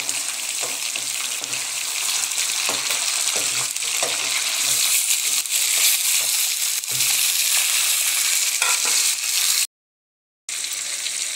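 Chicken pieces sizzling as they fry in hot oil in a metal karahi, with the spoon scraping and knocking against the pan as they are stirred. The sound drops out completely for under a second near the end.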